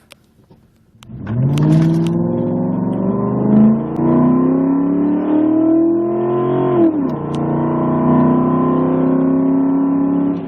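Ford F-150 pickup with a MagnaFlow dual exhaust and cold air intake accelerating hard from a standstill in a 0-60 run. About a second in the engine note rises, then drops at an upshift about three and a half seconds in. It climbs again and drops at a second upshift about seven seconds in, then holds steadier.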